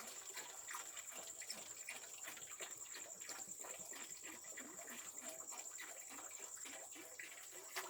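Crickets chirring steadily on one high pitch, with faint scattered clicks and small taps over them.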